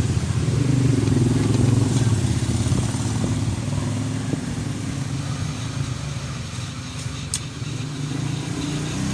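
A motor vehicle engine, likely a passing motorcycle, running with a low rumble; it is loudest in the first few seconds and then eases off.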